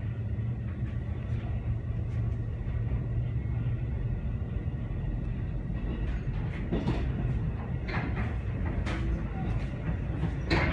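Deux-Montagnes line electric multiple-unit train running, heard from inside the passenger car as a steady low rumble, with a few short clacks in the second half. The car's ventilation is out, so no fan noise sits over the running sound.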